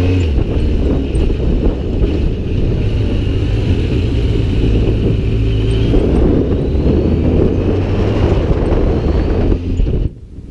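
Motorcycle engine running with the bike under way, mixed with wind rush over the microphone; the engine note climbs in the second half and the sound cuts off suddenly near the end.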